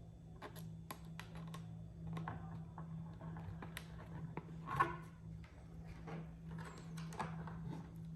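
Irregular small clicks, taps and knocks of parts and hardware being handled during assembly, with a louder knock near the end, over a steady low hum.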